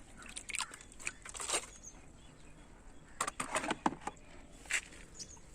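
A toy being washed: faint, scattered splashes and rubbing of water and plastic, coming in a few short clusters.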